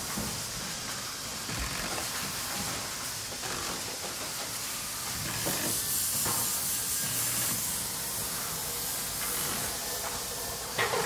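Steady hiss with faint scattered handling noises, then a couple of sharp plastic clicks near the end as fingers work the RC crawler's body retaining clip.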